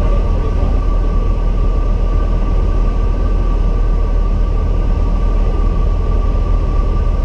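Steady in-flight cabin noise of a light single-engine training airplane: engine and propeller running with airflow rumble, with a steady high hum over it.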